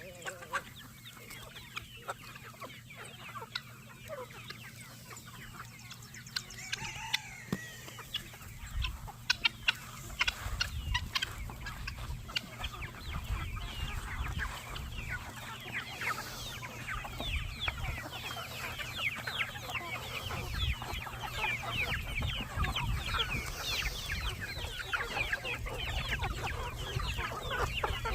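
A flock of chickens clucking, with many short, rapid calls that grow busier and louder about a third of the way in, over a low rumble.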